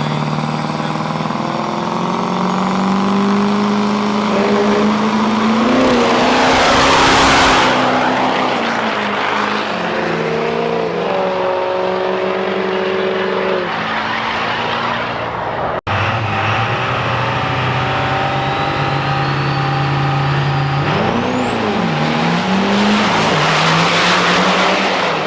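Diesel drag trucks running on the strip, engines loud with shifting pitch as they launch and pass. There is an abrupt cut about two-thirds of the way through, then another run with a high, rising whistle.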